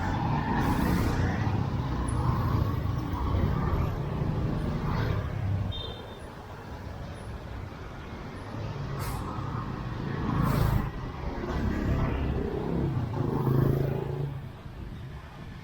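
Street traffic passing close by: motorbike and car engines running and fading as they go past, loudest in the first few seconds and again about ten and fourteen seconds in. A short high beep sounds near the middle.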